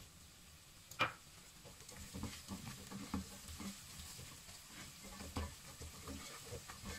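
Chopped onions and whole spices sizzling in oil in a granite-coated pot, stirred and scraped with a silicone spatula in irregular strokes from about two seconds in. A single sharp tap about a second in is the loudest sound.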